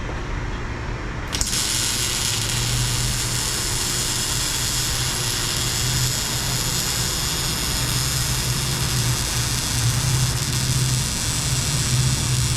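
Welding arc hissing and crackling steadily while a bead is run on the exhaust pipe. It starts suddenly about a second in, over a steady low hum.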